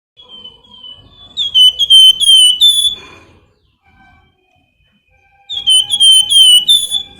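A flamboyan songbird giving its high, whistled 'nyiul' call: two bursts of quick, loud notes, each note sliding down in pitch, the first burst preceded by softer whistles and the second starting a few seconds later.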